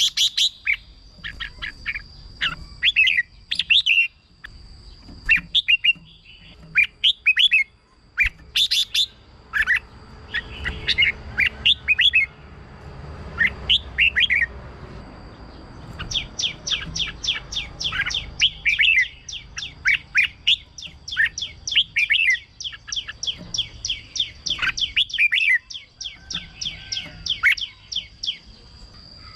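Red-whiskered bulbul singing: short, bright, warbling phrases, then a long fast run of rapid notes, several a second, from about halfway through. A thin steady high whine lies under the song.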